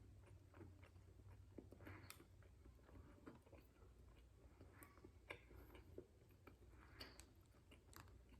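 Faint chewing with small, irregular mouth clicks: a person eating a fried-chicken sandwich on a glazed donut bun. A low steady hum sits underneath.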